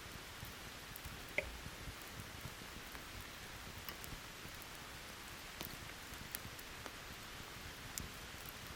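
Steady hiss of rain with a wood campfire crackling: scattered sharp pops and ticks over the rain, the loudest pop about a second and a half in.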